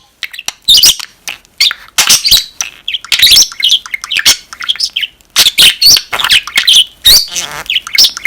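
Budgerigar warbling up close: a rapid, unbroken run of short chirps, clicks and chattering notes.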